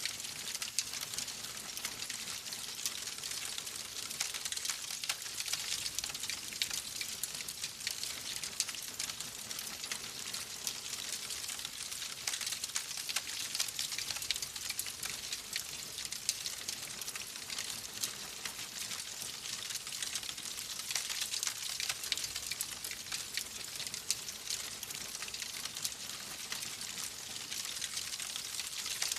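Wood fire crackling steadily, a dense run of small pops and snaps over a soft hiss.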